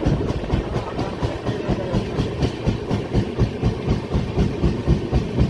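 Express passenger train running on the rails: a steady rumble with rapid, irregular knocking of wheels on the track.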